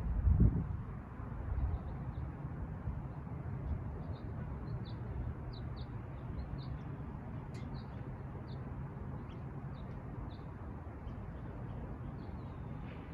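Small birds chirping in short, scattered notes over a steady low background rumble, with a brief thump right at the start.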